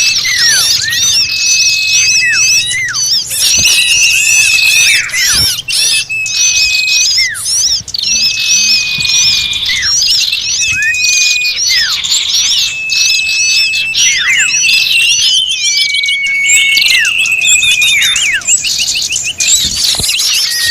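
A dense, noisy chorus of many small birds chirping and calling at once: rapid high twittering, with a clear whistled note that holds and then drops, repeating every second or two. It is a bird-luring (pikat) recording of agitated birds, used to call in all kinds of small birds.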